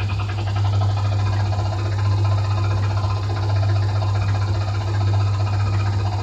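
Coin-operated helicopter kiddie ride running: a steady low hum from its drive motor under a fast, evenly repeating electronic sound effect from the ride's speaker.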